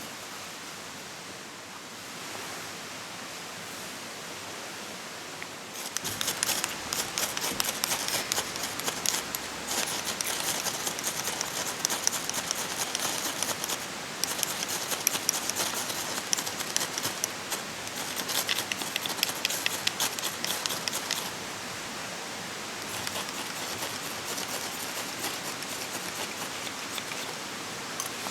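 Dense, fast crackling from cooking over an open wood fire, over a steady rushing background; the crackling starts about six seconds in, eases off about two-thirds of the way through, and picks up lightly again near the end.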